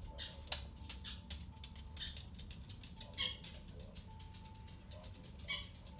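Handling noise of plastic tubs and substrate: light clicks, taps and rustles, with two louder short scratchy sounds, one about three seconds in and one near the end.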